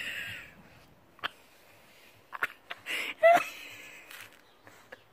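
A dog's short, high whining calls, twice, with a few light clicks between them.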